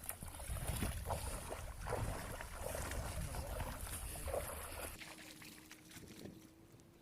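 Wind buffeting the microphone, with rustling and scraping handling noise, until the rumble cuts off about five seconds in; a faint steady hum follows.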